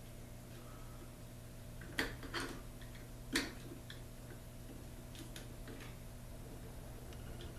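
A few sharp clicks and taps of wire connectors being handled and pushed back into the terminals of a garage door opener's logic board, the loudest about two seconds in and again about three and a half seconds in, over a steady low hum.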